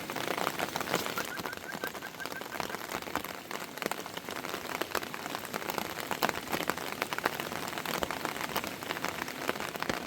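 Steady heavy rain, drops pattering densely on a surface, with a short run of faint high chirps about a second in.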